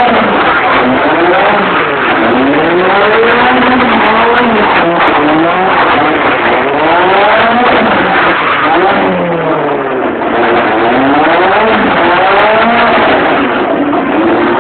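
Car engine revving up and down repeatedly during drifting, its pitch rising and falling every second or two.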